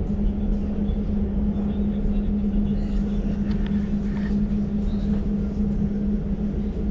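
Interior of an Elizabeth line Class 345 electric train running at steady speed: a constant low rumble with a steady hum.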